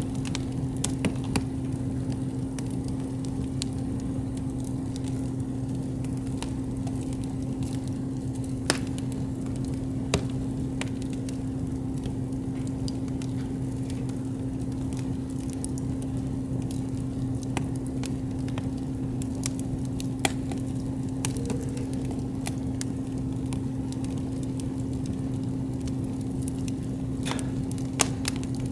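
Campfire wood burning with scattered sharp crackles and pops, a few louder snaps among them, over a soft hiss and a steady low hum.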